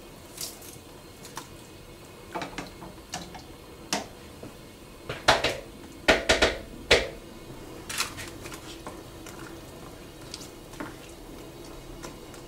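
Rough-chopped vegetables being put into a pot of chicken stock: about ten separate knocks and clatters against the pot, the loudest coming close together around the middle.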